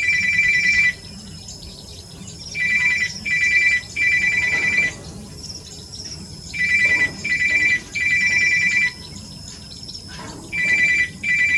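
Red-wattled lapwing calling: loud, high, shrill notes in bursts of two or three, repeated about every three seconds, with fainter high chirps above them.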